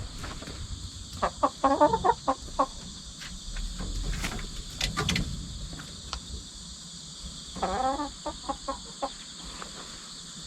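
Chickens clucking in two quick runs of short calls, about a second in and again near eight seconds, over a steady chirring of crickets. A few light knocks and rustles come in between.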